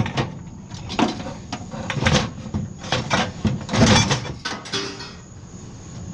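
Scrap metal being handled and set down, giving a string of irregular knocks and clanks about once a second, the loudest about four seconds in.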